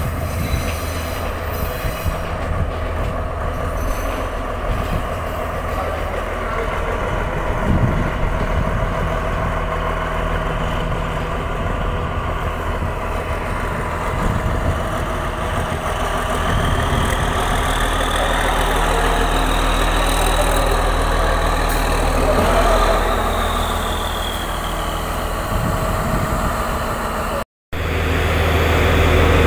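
Diesel train running along the track: a steady low engine hum with wheel and rail noise. From about halfway, a high squeal rises and falls over several seconds. Near the end, after a brief break, a diesel engine idles steadily and more loudly.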